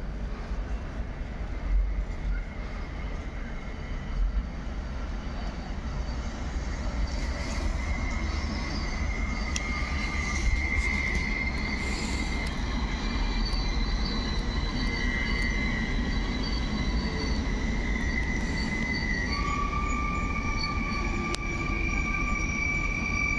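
Electric train running through the station: a steady low rumble with high-pitched steady tones, which jump up in pitch about nineteen seconds in.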